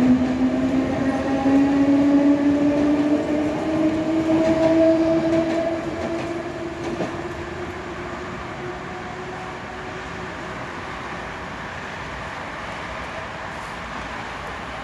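Budapest HÉV electric suburban train passing over a level crossing and pulling away, with a whine rising steadily in pitch. After about six seconds it fades, leaving a steady hum of street traffic.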